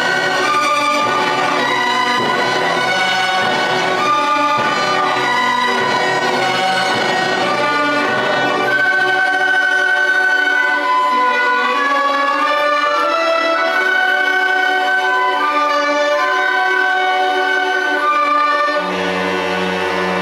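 School concert band of young wind and brass players playing a piece, with sustained chords and a melody of long held notes that takes over about halfway through.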